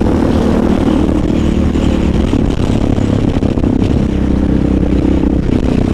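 Motorcycle engine running under way, with a steady pitch that drops briefly and then comes back up near the end, over road and wind noise.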